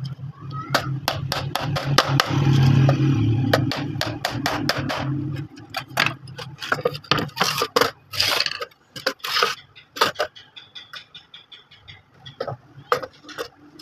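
Irregular knocks and taps of hand-tool work on wood, likely a hammer, with some scraping. A low steady hum runs underneath and stops about five and a half seconds in.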